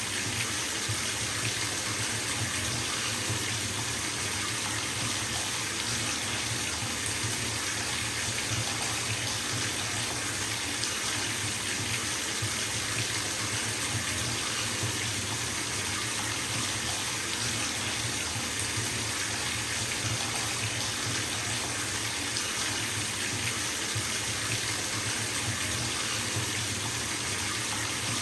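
Bathtub filling from a running tap: water pouring steadily into the tub in an even, unbroken rush.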